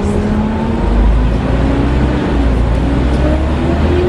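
Volvo B7TL double-decker bus heard from inside while driving: a steady diesel engine rumble under a loud hoover-like drone from its engine cooling fan, with a faint whine that slowly rises and falls.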